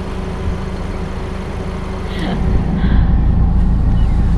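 Suzuki Jimny's engine idling with a steady low rumble that grows louder a little past halfway.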